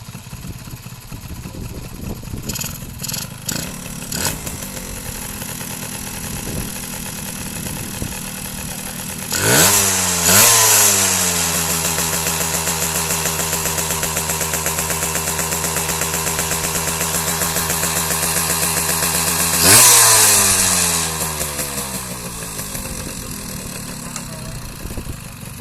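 Yamaha F1Z R two-stroke engine in a Yamaha V80 idling, then revved up sharply twice about nine seconds in. It is held at high revs for about nine seconds, blipped once more, and let fall back to idle.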